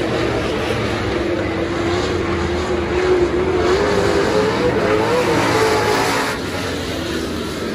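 Super stock dirt-track race car engine running hard at speed. Its note wavers, climbs a little about four to five seconds in, then the sound drops quieter a little past six seconds in.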